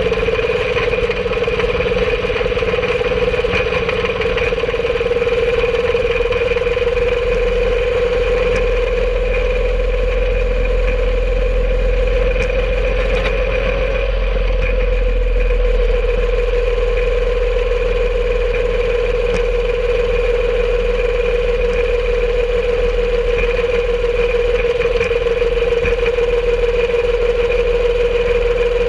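Small engine of a home-made rail cart running steadily as the cart travels along the track. Its pitch rises slightly about halfway through and then settles back.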